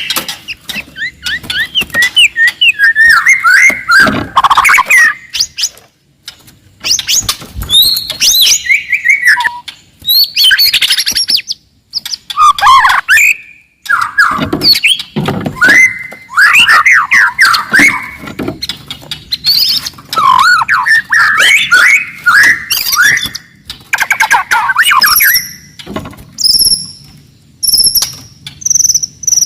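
A wild white-rumped shama singing loudly: fast, varied phrases of rapid notes broken by short pauses, turning to short, high repeated notes near the end.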